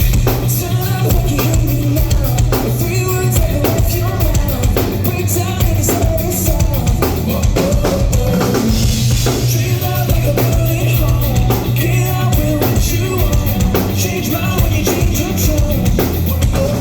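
Rock band playing loud and live: a full drum kit driving an instrumental passage under pitched instruments, between sung lines.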